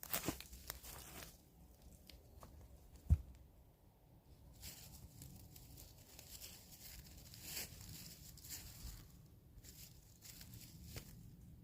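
Faint rustling and crackling of dry leaves, twigs and branches being handled or stepped on, with a single dull thud about three seconds in.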